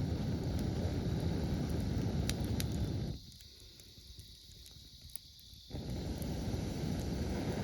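Wood campfire crackling with sharp scattered pops over a steady low rumble; the rumble cuts out suddenly for about two and a half seconds in the middle, then comes back.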